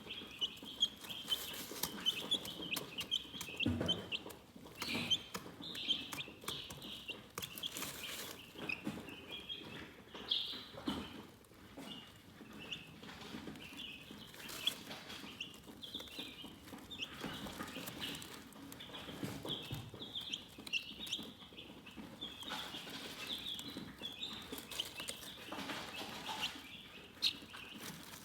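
Chickens chirping: many short, high chirps in quick succession, with scattered sharp clicks and taps among them.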